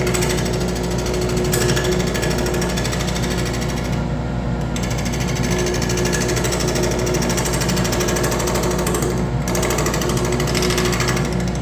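Wood lathe running steadily with a fast rattling, machine-like texture, the higher part of the sound dropping out briefly about four seconds in and again near nine seconds.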